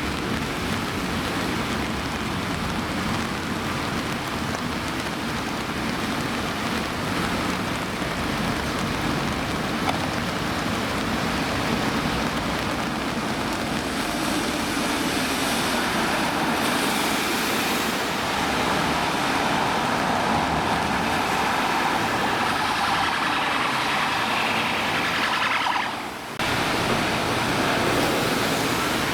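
Heavy rain and wet-road traffic noise, a steady hiss of rain with tyres spraying on a soaked road. It drops out briefly near the end.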